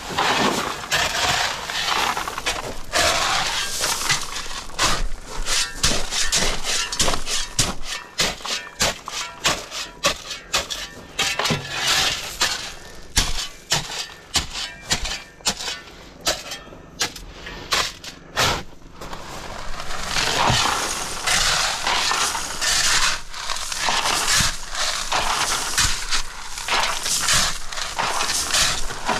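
Rock and gravel clattering and scraping, with many quick irregular knocks and crunches.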